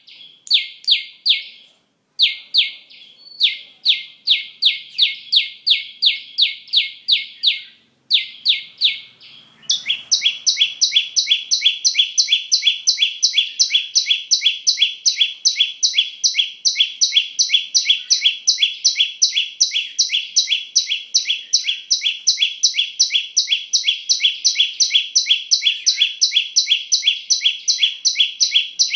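A small songbird, called 'chim sâu' in Vietnamese, singing a long series of quick, high, downward-sweeping notes, about three or four a second. About ten seconds in, the song becomes denser and unbroken, with a second higher line of notes laid over it.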